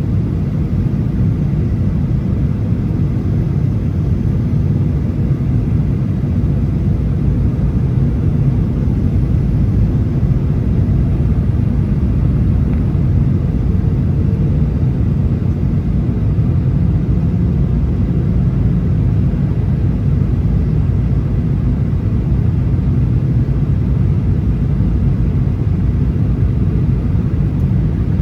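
Steady low rumble of a Boeing 737 heard from inside the passenger cabin: engine and airframe noise holding constant.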